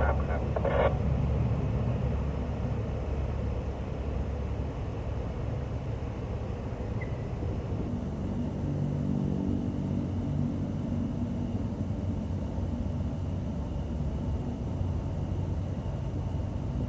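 Diesel locomotive engine running with a steady low rumble, its engine note growing stronger about halfway through.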